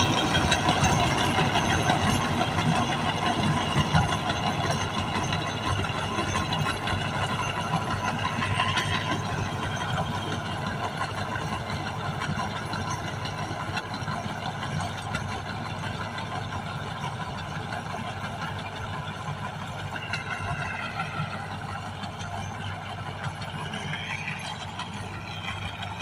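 Tractor diesel engine running, apparently the HMT engine fitted into a Sonalika 745, with a few brief shifts in pitch. It gets gradually quieter.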